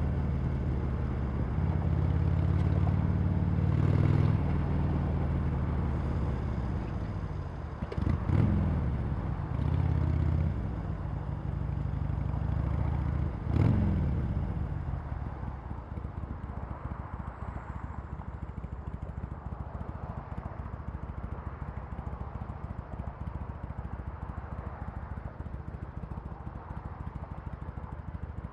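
Harley-Davidson Sportster Iron 883's air-cooled V-twin running through its stock exhaust. It pulls loudly for the first half, with the revs dropping and then picking up sharply twice. It then settles into a quieter, steady beat for the second half.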